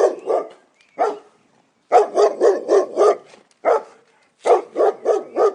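A dog barking in quick runs of short barks, with brief pauses between the runs.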